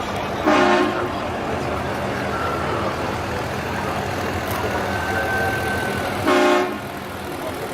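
Two short vehicle horn toots about six seconds apart, over steady traffic and crowd noise.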